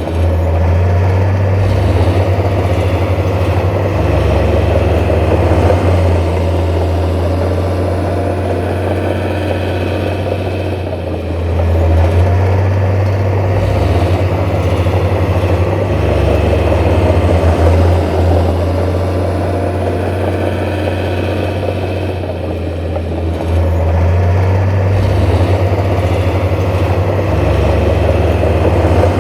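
Heavy diesel engine of earthmoving machinery running continuously, its low rumble rising and easing every several seconds as the load changes.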